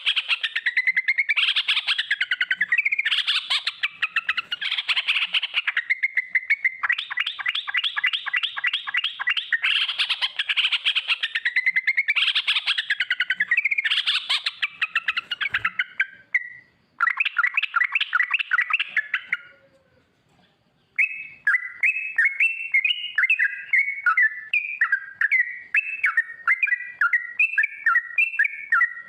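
Yellow-vented bulbul (trucukan) singing long rapid rolling phrases, its notes coming many times a second. It breaks off briefly twice, then goes on in choppier, bubbly phrases.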